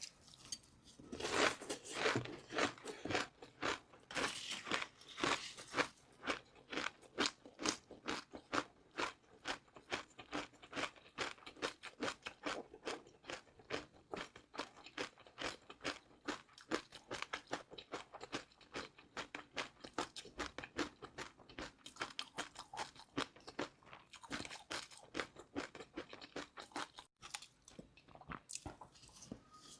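Crunchy food being chewed close to the microphone: a steady run of fast, crisp crunches, louder around two and five seconds in.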